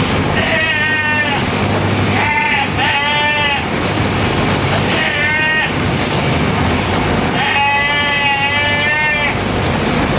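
Sheep bleating: five quavering bleats, the last and longest about seven seconds in, over a steady background noise.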